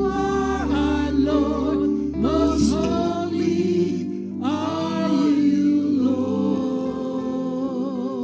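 Gospel music: singing voices in long sung phrases over steady held chords.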